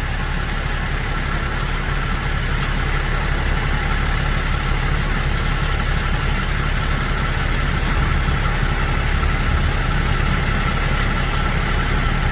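Large truck diesel engine idling steadily, with two faint ticks about three seconds in.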